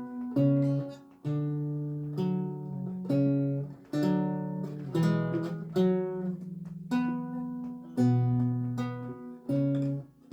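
Solo lute music: plucked notes and chords, each struck sharply and left to ring and fade before the next, at an unhurried pace.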